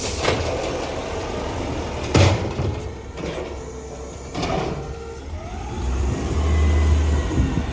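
Automated side-loader garbage truck at work: loud bangs and clanks at the start and about two and four and a half seconds in, a rising whine after about five seconds, and a low rumble swelling near the end.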